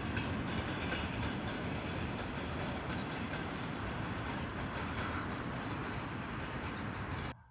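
Passenger coaches rolling past on the rails: a steady rumble of wheels on track. It cuts off suddenly just before the end.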